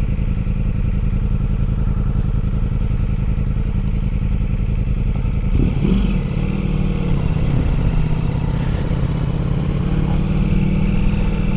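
Motorcycle engine running steadily at low speed while climbing a dirt trail, with the pitch shifting briefly about six seconds in.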